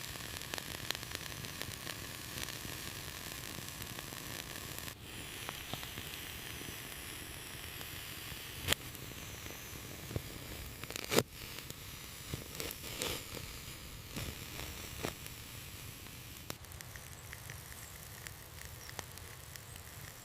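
Open wood fire crackling and popping over a steady hiss, with two sharper, louder pops about nine and eleven seconds in.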